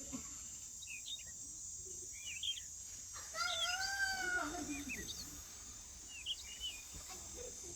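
Outdoor birdsong: scattered short bird chirps over a steady high-pitched insect buzz, with one drawn-out animal-like cry that rises and falls in pitch a little past the middle.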